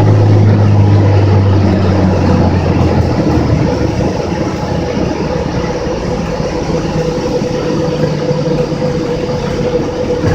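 Cessna 206's six-cylinder piston engine and propeller running, with the engine note easing back and the sound getting quieter about three to five seconds in as power comes off.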